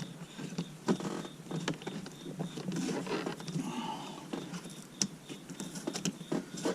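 Scattered clicks, taps and rustles of a dash cam power cable being pushed and tucked into the gaps of plastic interior trim panels.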